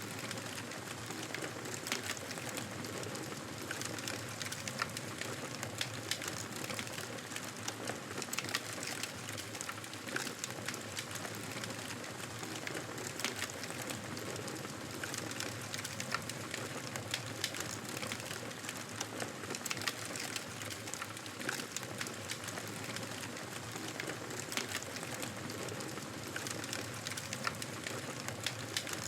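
Wood fire burning in a fireplace: a steady hiss of flames with irregular sharp crackles and pops from the burning wood.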